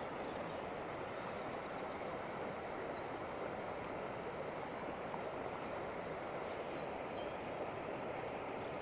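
Steady rush of a fast, high river in flood, with small birds singing short high trills over it several times.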